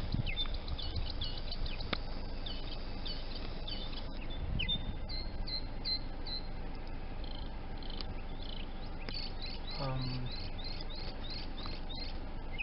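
Small songbirds chirping: a run of short, repeated high chirps, quickening into a fast series about nine seconds in, over a steady low rumble of outdoor background noise.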